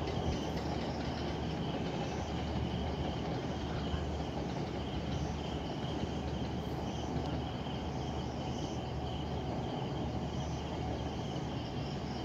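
Distant train running along the valley track, a steady low rumble. Insects chirr steadily over it.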